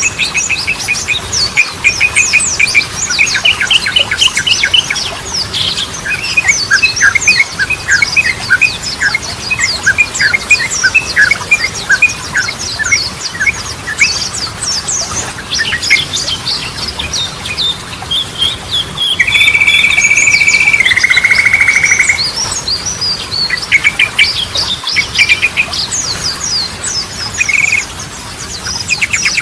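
Yellow-vented bulbul singing in fast runs of sharp chirps and whistles. About two-thirds of the way in, a steady buzzing note holds for about three seconds and steps down in pitch partway.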